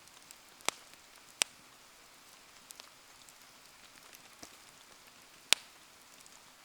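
Wood bonfire burning in the rain: a faint steady patter of rain under scattered small ticks and crackles, with three sharp loud pops, two in the first second and a half and one about five and a half seconds in.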